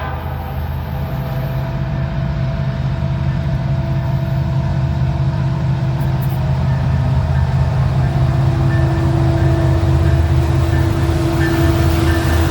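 Diesel locomotives of an intermodal freight train working slowly up a steep grade: a heavy, steady low engine drone with a held tone, growing gradually louder in the second half.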